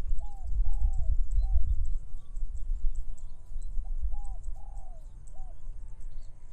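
A dove cooing a three-note phrase twice, about three seconds apart, over a steady low wind rumble. Faint high ticks repeat in the background, about three a second.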